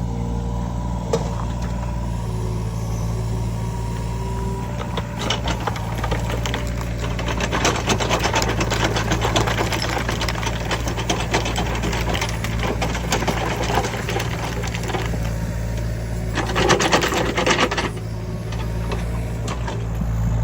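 Heavy earth-moving equipment's diesel engine running steadily. A dense clattering and crunching runs from about five seconds in to about fourteen, and comes again briefly near the end.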